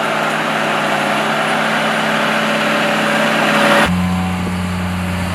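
An engine running steadily. About four seconds in, the sound cuts abruptly to a steadier, lower engine hum with less noise above it.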